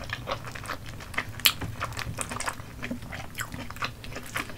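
Close-miked chewing of chewy Korean rice cakes (tteokbokki): a run of short, irregular sticky mouth clicks and smacks.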